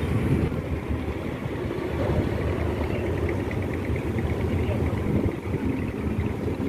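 Steady low rumble of a large passenger ship's engines, with indistinct voices of people in the background.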